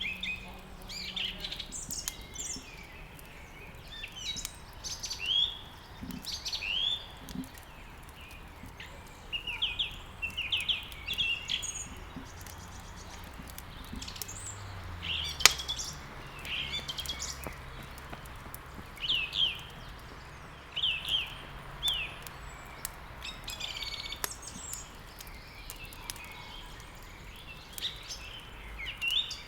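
Small songbirds chirping in quick repeated short calls throughout, over a wood fire crackling in a fireplace with scattered sharp pops. One pop about halfway through stands out as the loudest sound.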